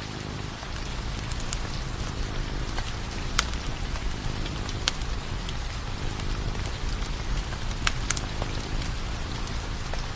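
Wood fire burning: a steady low rumble with scattered sharp crackles and pops of burning firewood every second or two.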